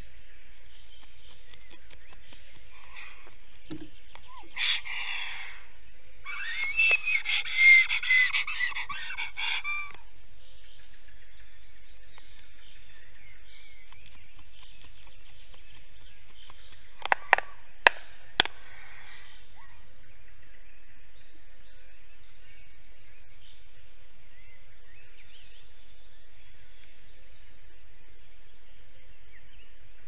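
Forest birdsong: a small bird repeats a short, high, falling note every second or two. A louder, noisy burst of bird calls comes from about 6 to 10 seconds in, and about four sharp clicks come around 17 to 18 seconds in.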